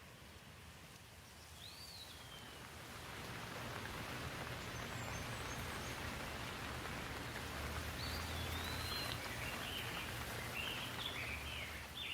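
Steady rain falling, swelling in over the first few seconds and then holding even. A bird gives a short chirp near the start and chirps several times near the end.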